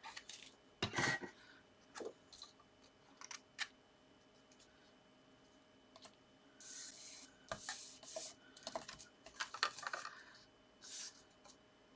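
Paper and card being handled and pressed down on a craft table: scattered light taps and clicks, then several short rubbing and rustling scrapes of paper sliding and being smoothed in the second half.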